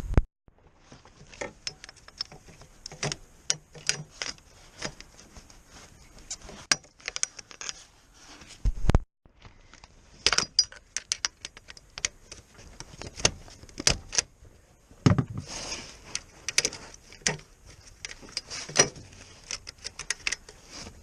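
Irregular metallic clicks and clinks of hand tools and fasteners being handled during clutch-replacement work, over a faint steady high hiss.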